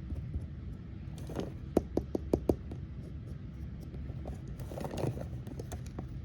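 Small plastic toy parts being handled: a quick run of about five light clicks around two seconds in, with brief rustling before it and again near the end, over a steady low hum.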